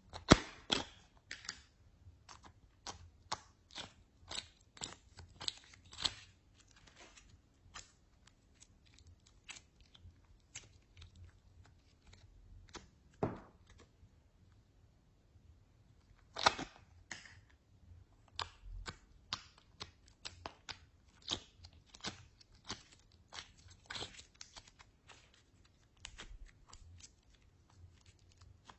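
Slime being squeezed and mixed by hand, giving irregular sharp clicks and pops, some in quick clusters.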